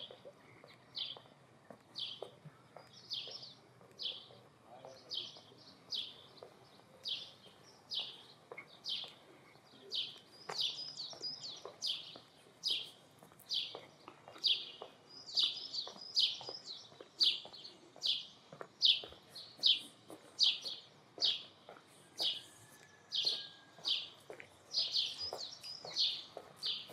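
A bird chirping over and over: short high notes about once a second, now and then two or three in quick succession.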